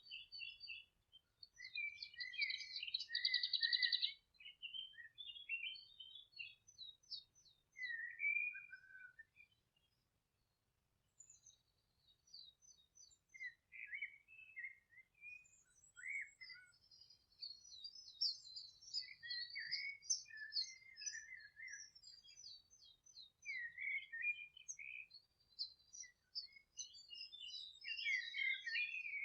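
Several songbirds singing and chirping, one short phrase after another, with a loud buzzy trill a few seconds in and a brief lull about a third of the way through.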